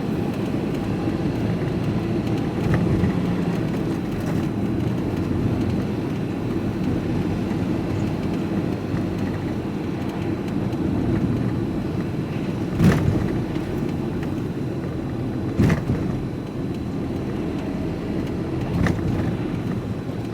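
Steady engine and road rumble of a vehicle being driven, heard from inside the cab, with a few short sharp knocks from about halfway through.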